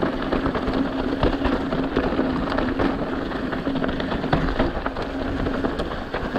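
Mountain bike rolling over rough, bumpy trail: a dense clatter of knocks and rattles from the tyres and bike over rocks and roots, with a steady hum underneath.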